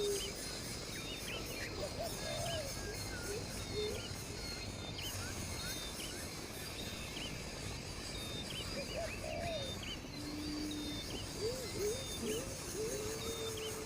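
Birds calling outdoors: many small high chirps throughout. A few lower calls stand out, with short swooping notes early and again later, and one long, slightly falling note near the end.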